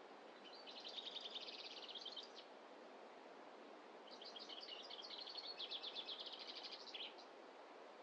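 A small songbird sings two fast, high trilled phrases, each about two seconds long, a couple of seconds apart, over a faint steady rush of background noise.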